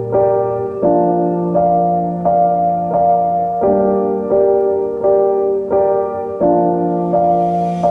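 Background piano music: slow repeated chords, a new note struck about every 0.7 seconds, the harmony changing every few seconds.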